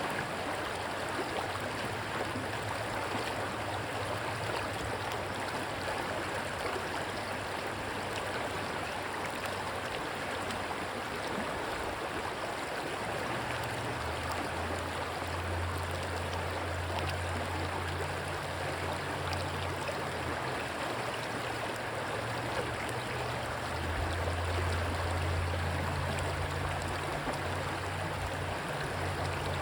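Rushing stream water, a steady even hiss and gurgle. A low steady drone joins it partway through, strongest about halfway and again near the end.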